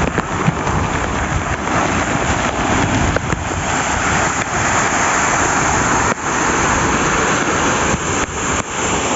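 Waterfall roaring: a steady, loud rush of falling water crashing into its pool.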